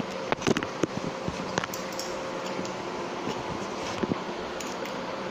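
Sharp little clicks and taps of metal binder clips being handled and fitted together, several in the first second or two and a couple more about four seconds in, over a steady background hum.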